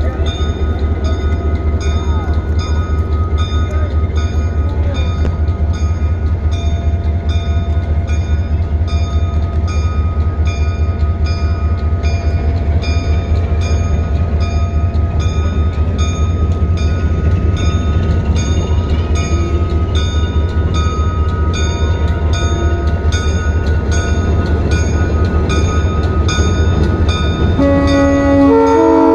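Switcher locomotive's diesel engine running with a heavy, pulsing rumble while its bell rings in a steady rhythm. Near the end the air horn sounds a chord of several tones.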